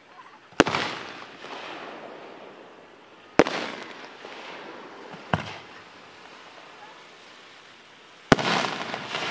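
Aerial firework shells bursting: four sharp bangs, about half a second in, at three and a half seconds, a smaller one at five and a half, and one near the end. Each bang trails off in a fading rush of noise.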